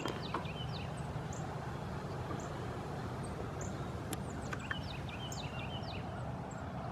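Small songbirds chirping: short high chips repeating about once a second, mixed with quick falling call notes, over a steady low background hum.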